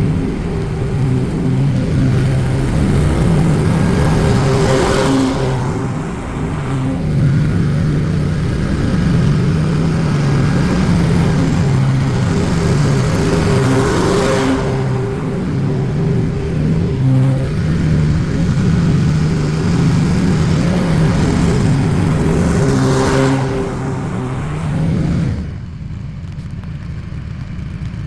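Lawn mower engine running steadily at a constant pitch, swelling in noise three times, about every nine seconds. About 25 seconds in the engine sound stops, leaving a quieter steady hiss.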